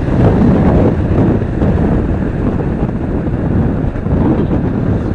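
Loud wind buffeting on the microphone of a moving motorcycle, with the motorcycle's running noise underneath.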